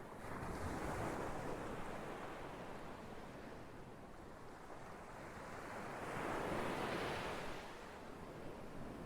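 Ocean surf washing in continuously. The noise swells twice: a smaller wave just after the start and a larger one about two-thirds of the way through, with a steady hiss between them.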